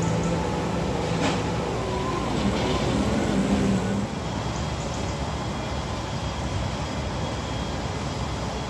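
An engine running steadily with a low hum, under a dense bed of noise. The hum drops a little in level about four seconds in.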